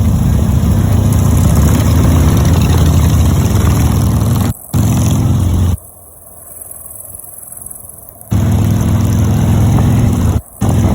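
Loud motorcycle engines running steadily with a deep drone, cut off abruptly by edits a few times: a brief gap about four and a half seconds in, and a longer quieter stretch near the middle.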